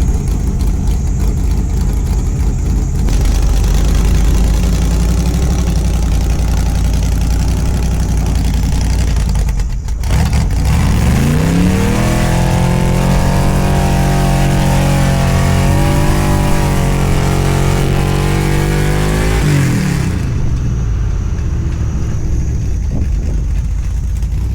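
Truck engine running steadily, then revved up about halfway through, held at high revs for about eight seconds, and let back down.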